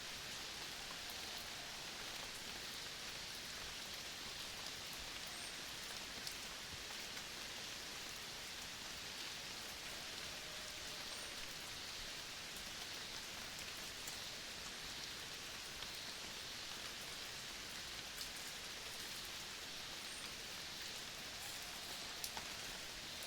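Steady forest ambience: an even hiss with scattered light ticks and a few faint, short distant calls.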